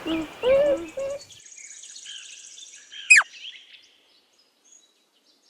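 Beaver making a series of repeated whining calls, about two a second, which stop about a second in. Faint bird chirps follow, with one sharp falling whistle about three seconds in.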